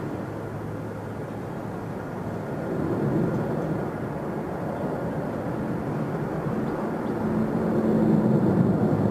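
Jet airliner's engines, a continuous rumble that swells about three seconds in and grows loudest near the end, with a faint steady hum joining in late on.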